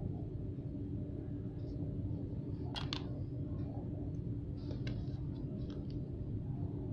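Steady low background hum with a few small clicks and taps, the sharpest a quick double click about three seconds in.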